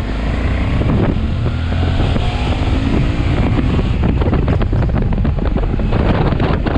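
Motorcycle engine accelerating, rising in pitch over the first few seconds, under heavy wind buffeting on the microphone that turns choppier near the end.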